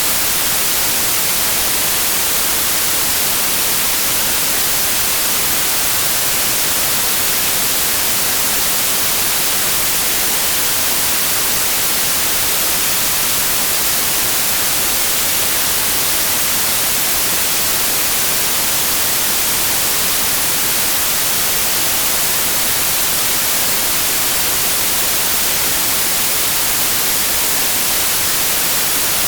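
Steady white noise test signal: an even, unchanging hiss at a constant level.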